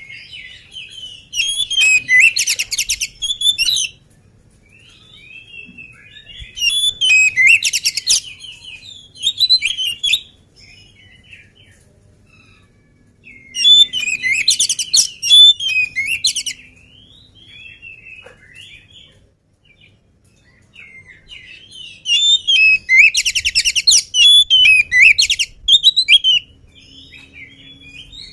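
Oriental magpie-robin (kacer) singing in loud bursts of rapid, varied whistles and trills a few seconds long, about four times, with quieter scattered chirps between.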